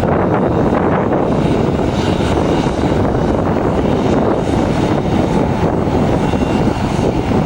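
Bombardier CRJ-900's two rear-mounted turbofan jet engines running: a loud, steady roar with a faint high whine on top.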